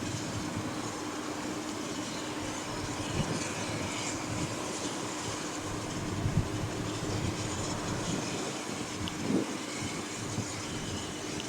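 A train running on the track, with scattered knocks over a steady hiss and a faint steady hum.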